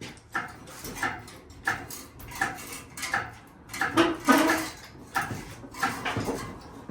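Metal striking metal in a series of clanks, about one every two-thirds of a second, with two louder strikes about four seconds in.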